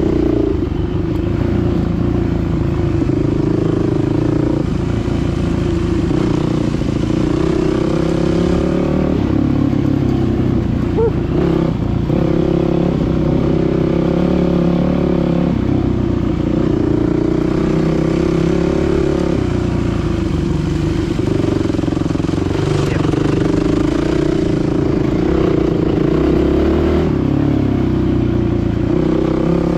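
Dirt bike engine running while being ridden, its pitch wavering up and down with the throttle.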